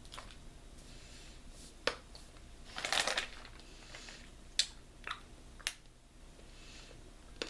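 A few sharp clicks and one short, louder crinkling rustle about three seconds in, from handling hard mint candies and their packaging.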